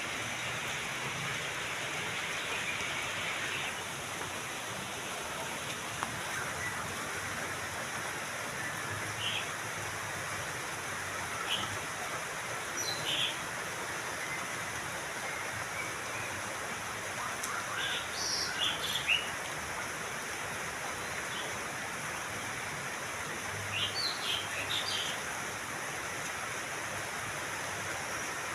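Birds chirping: scattered short high chirps, coming in small clusters about two-thirds of the way through and again near the end, over a steady rushing hiss.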